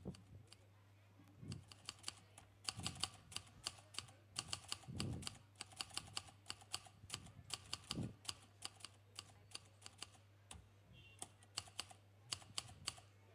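Typing on a laptop keyboard: irregular runs of quick key clicks, with a few soft low thuds and a steady low hum underneath.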